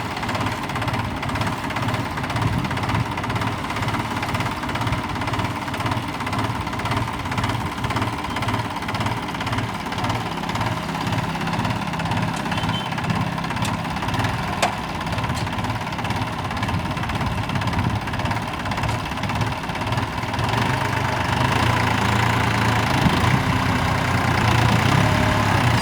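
Tractor engine running steadily with a regular low chugging beat, getting louder about twenty seconds in as it works the mounted drill machine.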